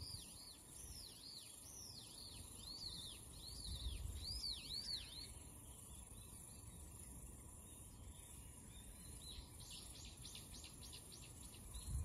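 A small bird repeating a high, arching call about two or three times a second for the first five seconds, then a quick rattling trill near the end. A steady high hiss of insects and a low rumble run underneath.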